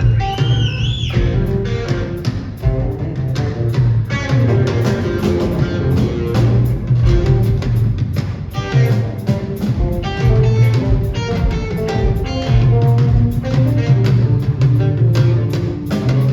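Live rock band playing an instrumental passage: electric guitar lead over bass guitar and drum kit. About a second in, the guitar bends a high note up and lets it fall back.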